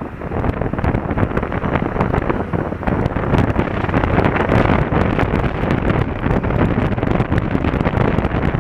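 Wind rushing over a motorcycle-mounted action camera's microphone as the bike rides along, getting louder about a second in.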